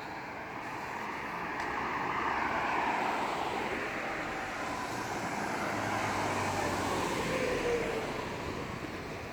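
Road traffic going past: vehicles swell and fade twice, one with a brief falling pitch as it passes near the end.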